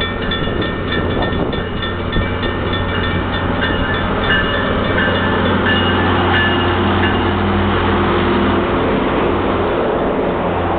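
Metro-North train pulling into the station: a steady low hum from the train, with a bell ringing rapidly over it early on.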